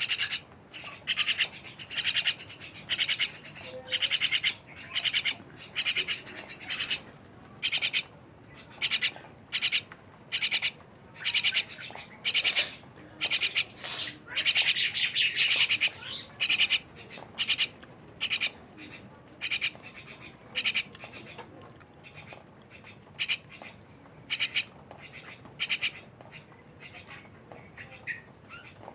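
Jalak (a myna-type starling) giving short harsh calls over and over, about one or two a second, with a longer, denser run of calls midway and softer calls near the end.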